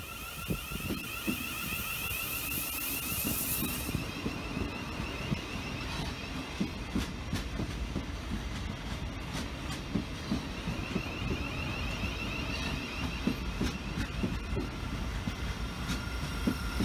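Train running on the track, its wheels clicking over rail joints, with a high, steady whine. A loud hiss stops about four seconds in.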